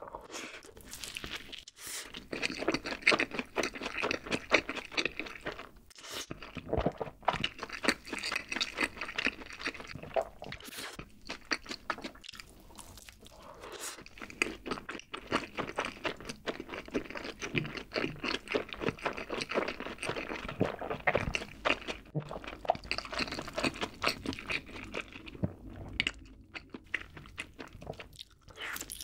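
Close-miked chewing of a fried cheese ball dipped in cheese sauce: crackly crunching and wet mouth sounds in runs, broken by a couple of short pauses.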